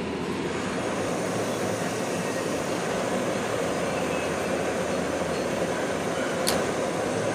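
Handheld torch flame burning steadily, heating the reinforcing ring before it is melted into the cracked pulley hub. A single short click near the end.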